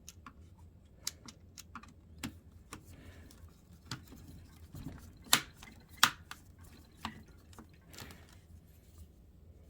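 Scattered small clicks and taps of laptop parts being handled, with two sharper knocks a little past the middle, about a second apart.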